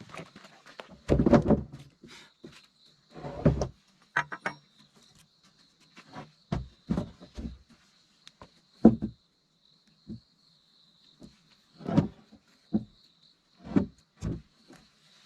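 Irregular knocks and thuds, a few heavier ones near the start, over a steady high insect drone.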